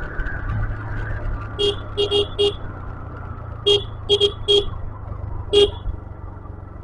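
Small electric vehicle horn tapped in short toots, nine in all: two quick runs of four, then a single one. Under it a motorbike engine and wind rumble run steadily while riding down a hill road.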